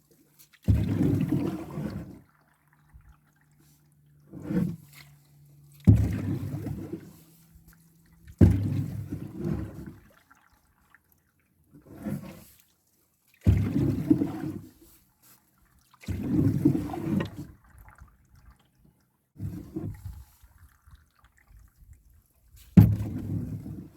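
Water sloshing and splashing against a canoe in repeated surges, each starting sharply and dying away over a second or two, about every two to three seconds.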